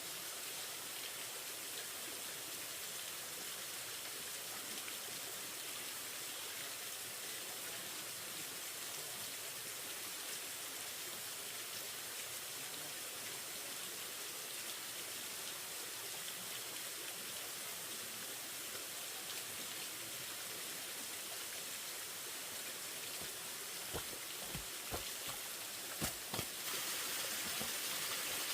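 Steady rain falling, an even hiss throughout. A few sharp knocks come near the end, and the sound grows louder just before it ends.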